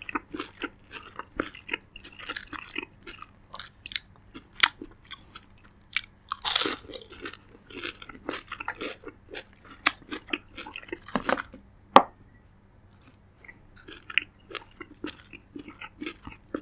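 Close-miked chewing of a crispy fried spring roll (lumpiang shanghai): crunching in many short, irregular crackles, with a few louder ones in the middle.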